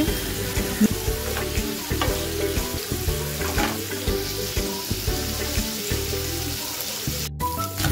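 Boiled goat lung, spleen and kidney pieces sizzling as they fry in oil in a nonstick pan, stirred with a wooden spatula, while the water left from boiling cooks off. The sound cuts out briefly near the end.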